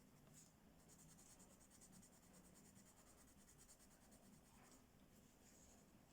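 Faint, rapid back-and-forth scratching of a coloring tool shading on paper, running steadily for a few seconds and stopping near the end.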